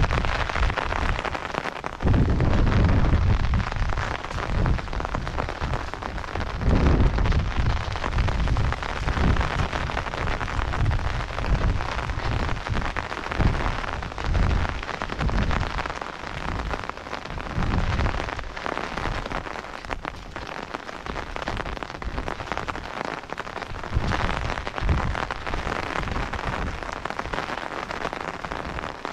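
Steady rain hiss on a wet path and fields, with irregular gusts of wind buffeting the microphone as low rumbles. The gusts are strongest in the first several seconds and ease off later.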